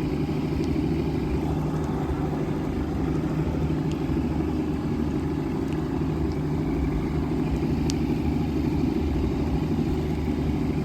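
Boat's outboard motor running steadily while under way.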